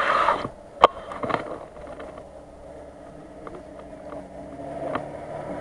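Engine of an off-road SUV driving along the far shore, a steady drone that grows louder as it approaches. A sharp click about a second in.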